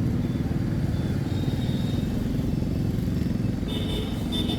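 Motorcycle engine running steadily. Near the end, a rapid, high-pitched pulsing beep comes in over it.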